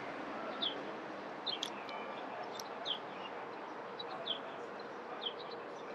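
Bird chirping: short, high, falling notes about once a second over a steady outdoor background hiss.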